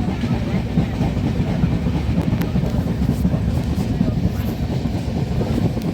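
Moving passenger train rumbling steadily along the track, heard from on board.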